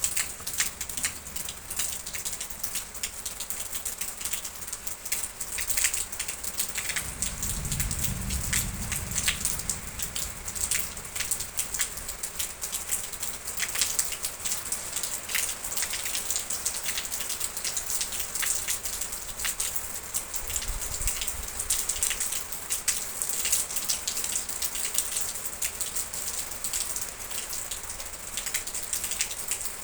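Steady rain falling on a surface, a dense even hiss with many individual drops ticking. A soft low rumble rises under it for a few seconds about a quarter of the way in, and more faintly about two-thirds of the way in.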